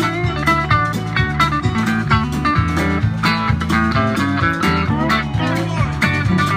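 Live country-rock band playing an instrumental break: a guitar lead with sliding, bending notes over a steady bass line and drums.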